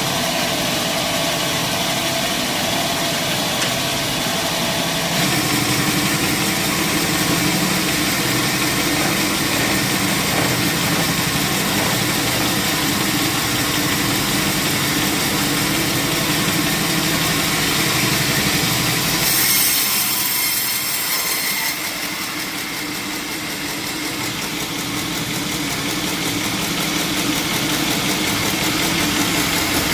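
Sawmill machinery running steadily with a constant mechanical hum. Its pitch shifts about five seconds in; about two-thirds of the way through a brief hiss rises over it, and then the sound grows a little quieter.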